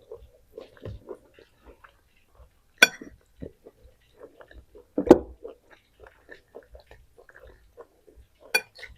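Close-miked chewing and mouth sounds of a person eating, with three sharp knocks, the loudest about five seconds in.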